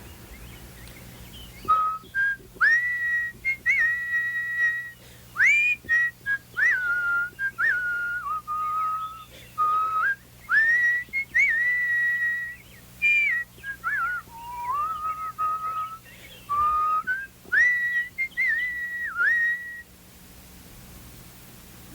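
A person whistling a bird-like song in imitation of a nightingale: sliding chirps and held notes, starting about two seconds in and stopping shortly before the end.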